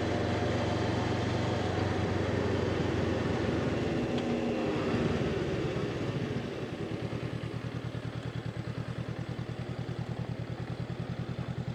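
Honda CB500X parallel-twin motorcycle engine running under way, with a hum of wind and road noise. After about six seconds the engine drops to a lower, evenly pulsing beat as the bike slows. The sound cuts off suddenly at the end.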